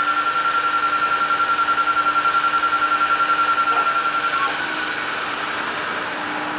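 Hydraulic outriggers of an Altec AT37G bucket truck being lowered: a steady high-pitched hydraulic whine with a fast flutter, which stops about two-thirds of the way through, over the running hydraulic system's lower hum.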